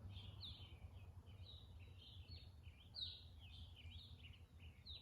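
Faint birdsong: a steady run of quick, high chirps with no pause, over a low steady hum.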